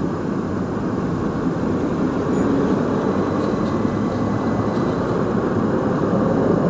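Steady rumble of vehicle noise, slowly growing a little louder.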